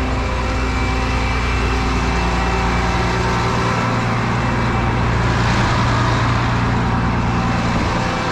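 Truck engine idling steadily, an even hum with a noisy hiss over it.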